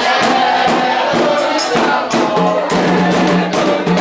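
Percussion-led ritual music: drums and sharp struck clicks in a quick rhythm, with singing over it. A low held note comes in about halfway through.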